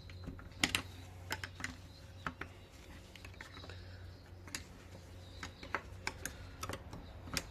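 Irregular light metallic clicks and taps of hand tools working at a rusted ATV brake caliper, a dozen or so spaced unevenly, over a faint low hum.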